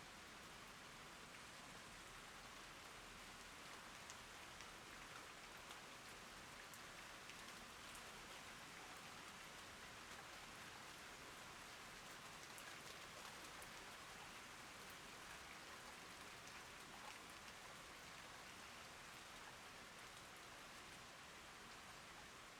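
Steady rain falling, faint, with scattered drops ticking.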